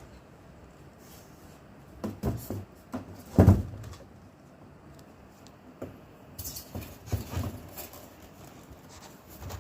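Handling noises: a few knocks about two seconds in, one loud thump about three and a half seconds in, then scattered knocks and scrapes.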